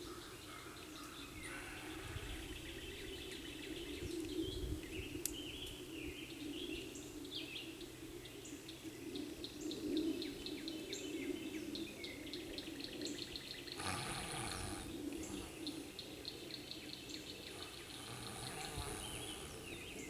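Outdoor ambience of birds calling, with repeated rapid chirping trills and a steady low background noise.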